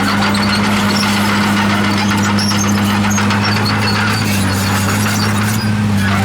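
Komatsu D51PX crawler bulldozer's diesel engine running steadily under load, with high-pitched squeaks and squeals from the steel tracks.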